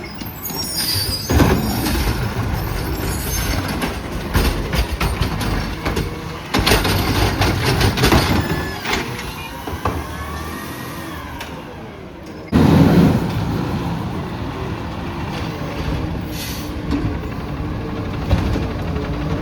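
Autocar ACX automated side-loader garbage trucks at work: engine and hydraulics rising and falling in pitch, with loud knocks and clatter from the lifting arm and cans. About two-thirds of the way through the sound changes abruptly to another of the trucks, which starts with a loud bang and then keeps running steadily.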